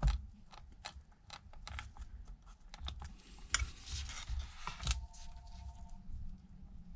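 Light, irregular clicks and taps of small repair tools and fingers on an opened iPad's internal parts and flex cable connectors, as the cables are handled for reconnection.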